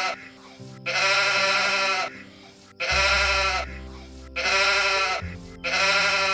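A sheep or goat-type animal bleating: a run of loud bleats, each about a second long with a wavering pitch, with short gaps between them. Underneath is a low, steady music bed.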